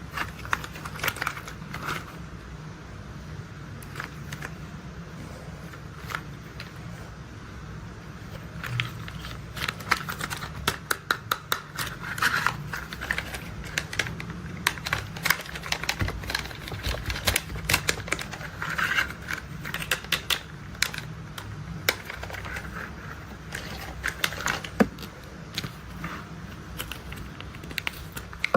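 Hard plastic toy construction vehicles being handled, with quick irregular clicks and light rattles of plastic parts that grow busier about a third of the way in, over a low steady hum.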